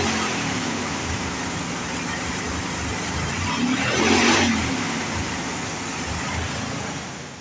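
1995 Dodge Ram pickup's engine idling, revved once briefly about four seconds in and dropping back to idle.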